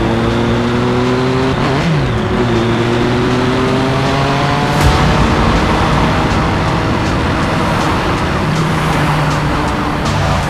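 Layered motorcycle engine sound effects: the engine runs hard with its pitch climbing, dips briefly about two seconds in, then climbs again. A sharp click about five seconds in.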